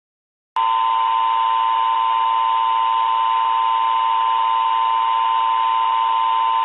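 Emergency Alert System attention tone: a loud, steady alarm tone over radio static that starts suddenly about half a second in, after silence, and holds without change. It announces an emergency broadcast, here a tornado warning.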